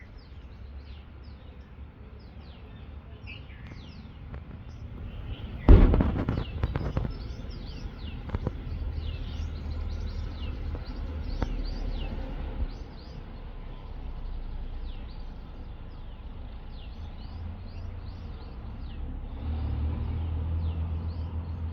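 Small birds chirping repeatedly in quick short notes, with a single sudden loud bang about six seconds in that crackles off over the next second, and a low rumble underneath.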